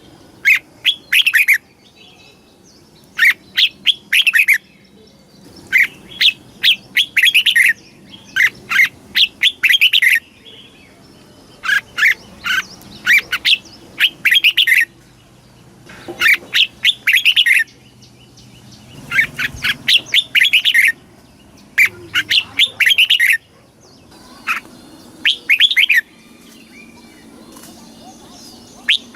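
Red-whiskered bulbul singing: short phrases of quick, bright chirping notes, repeated in groups with short pauses between them.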